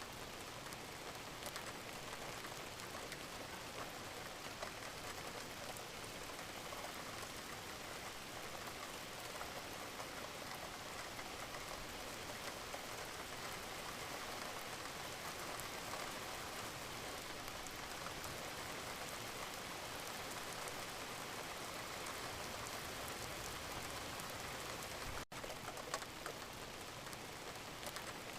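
Wood fire crackling in a fireplace: a steady hiss dense with small pops and snaps. It cuts out for an instant about 25 seconds in.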